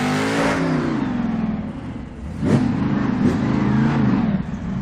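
Monster truck's motor revving up and down, its pitch rising and falling several times, with a sudden sharp change about two and a half seconds in.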